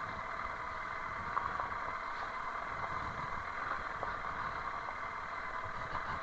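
Honda CRF300L Rally's single-cylinder engine running quietly at low speed, a faint steady hum with a few light ticks.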